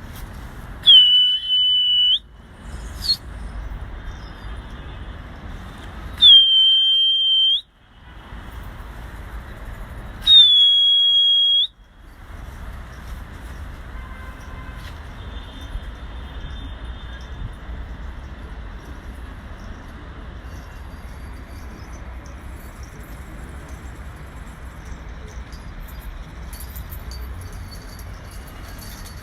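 Three loud, sharp whistle blasts from a pigeon fancier, each a little over a second long with a short upward swoop at the start, about five and four seconds apart: whistling used to drive the pigeon flock up. Steady background noise runs between and after them.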